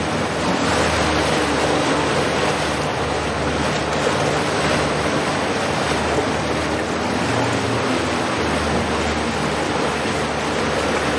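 A houseboat under way: a steady rushing of water and wind, with a low, even engine hum underneath.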